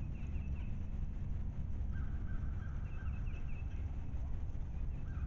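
Birds calling in short runs of quick chirping notes, once near the start and again about three seconds in, with a steadier call just before the second run, over a steady low rumble.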